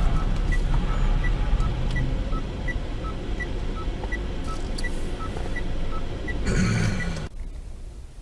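Car indicator ticking in an even two-note tick-tock, a higher and a lower beep alternating, about one pair every three quarters of a second, over a steady low engine and road rumble in the cabin. The sound cuts off abruptly about seven seconds in.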